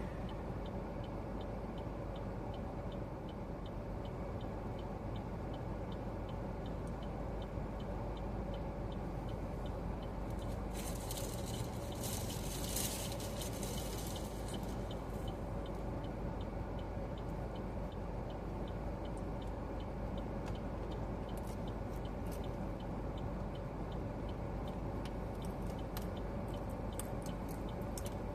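Inside a moving car's cabin: steady engine, road and air-conditioning noise, with a turn-signal indicator ticking evenly about twice a second. A louder hissing rush comes through about eleven seconds in and fades after a few seconds.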